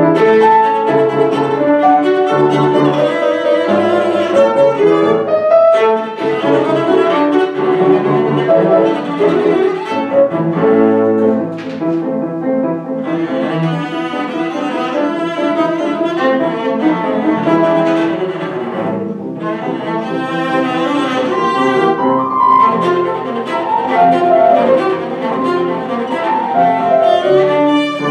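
A classical piece played on a bowed string instrument with piano accompaniment, a flowing melodic line that barely pauses.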